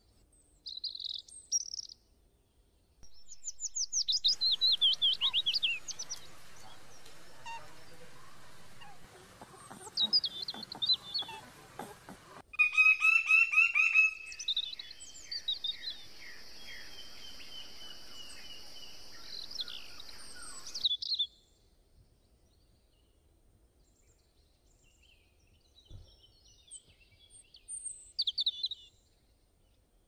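Birds chirping and calling in a run of short edited clips: quick high chirps and trills, then louder calls, with a steady high hiss behind them for several seconds.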